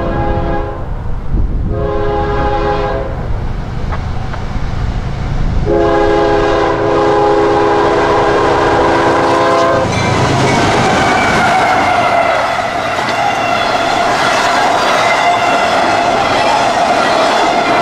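CSX diesel locomotive air horn sounding a chord in three blasts, a short one followed by a long one of about four seconds, over the locomotive's low engine rumble. Then the freight train rolls past, its wheels clattering on the rails with a steady ringing whine.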